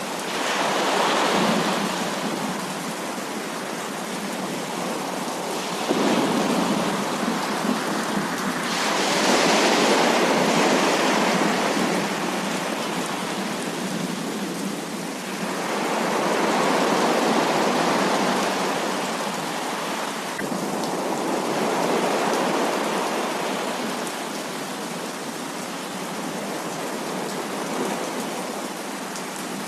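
Heavy rain falling, a dense steady rush that swells louder and eases again several times.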